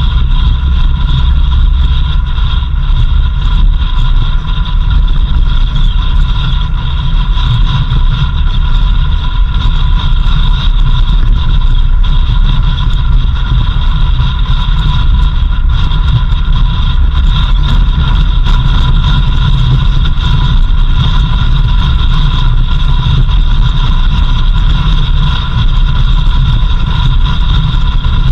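A vehicle driving on a dirt road: a steady, loud engine and road rumble with a steady high-pitched whine over it.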